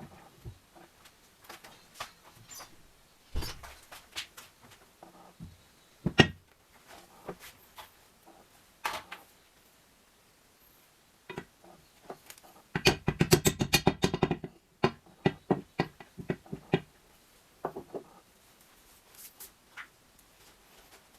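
Tools and metal engine parts being handled: scattered knocks and clicks, with a fast rattling run of clicks lasting about two seconds midway.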